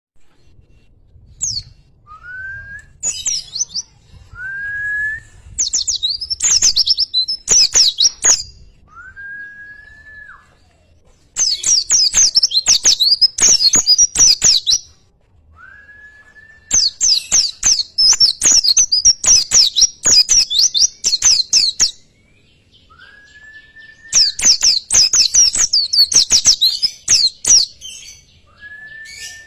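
Birdsong: four long runs of fast, rapidly repeated high chattering notes, each lasting several seconds, alternating with a short, lower whistle that rises and then holds, heard about six times.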